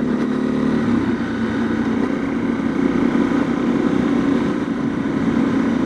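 Honda CRF250L's single-cylinder four-stroke engine running while riding, holding a fairly steady note.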